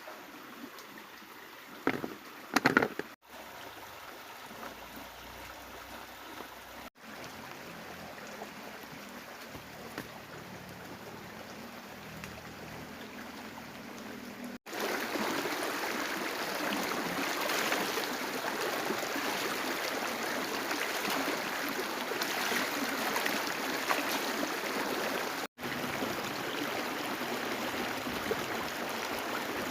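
Steady rushing of water, a dense even hiss that grows clearly louder after a cut about halfway through. A few sharp knocks sound near the start.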